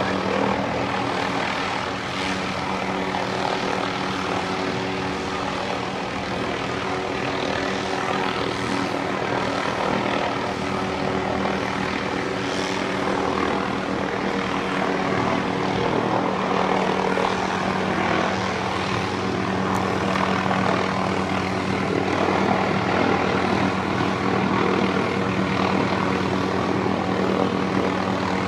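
Helicopter hovering close by, a steady drone of rotor and turbine engine with a dense rush of noise over it.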